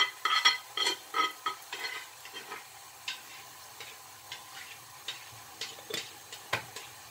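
Sofrito with pork cracklings frying gently in a nonstick frying pan, a faint steady sizzle. Over it comes a run of light clicks, about three a second, for the first two seconds or so as seasoning is shaken over the food; after that the clicks are fewer and further apart.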